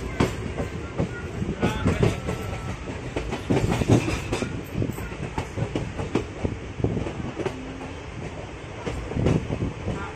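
Passenger train coach running along the track, its wheels clacking and knocking over rail joints under a steady rumble, heard from inside the coach.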